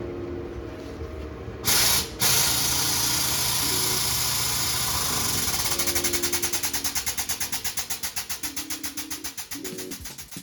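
Air-cooled Volkswagen flat-four engine running loudly with a strong hiss. Near the end its sound pulses in even beats that slowly spread apart.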